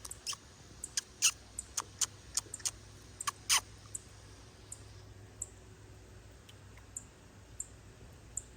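Baby bird calling with short, thin, high chirps that drop in pitch, a quick run of about a dozen in the first four seconds, then only a few scattered ones.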